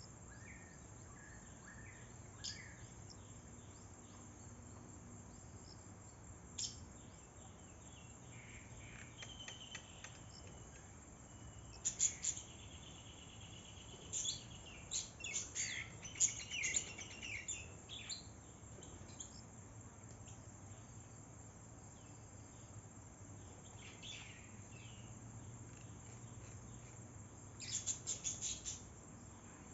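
Small birds chirping and calling in short, high-pitched bursts, with scattered single calls and busier flurries about twelve to seventeen seconds in and again near the end. A faint steady high insect drone runs underneath.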